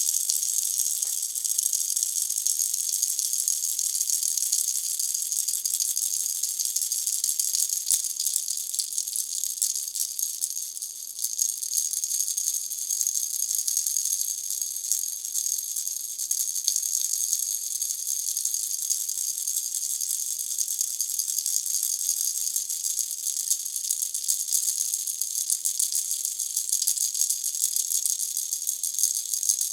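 Pineapple-shaped baby rattle shaken continuously, a dense, bright, unbroken rattle at a steady level, briefly softer about eleven seconds in.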